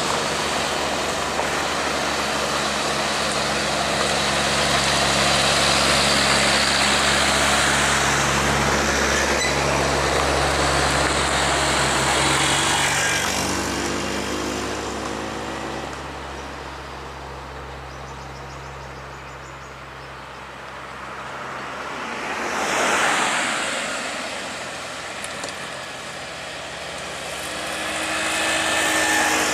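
Road traffic passing close by on an uphill grade: a heavy truck's diesel engine gives a steady low drone with tyre noise, loudest in the first half and fading away past the middle. A second vehicle passes quickly about 23 seconds in, and another is approaching near the end.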